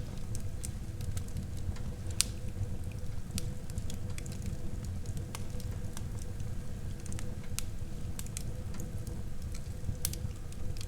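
Wood fire burning in a fireplace: a steady low rumble of flames with irregular sharp crackles and pops, the loudest pop a little over two seconds in.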